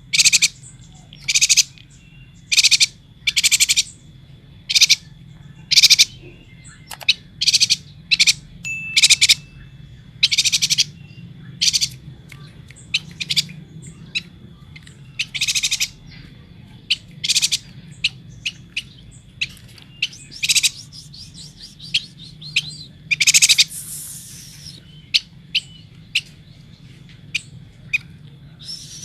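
Chestnut-crested yuhina calling: short, high chirps repeated roughly once a second, breaking into quicker runs of twittering notes in the second half, over a faint steady hum.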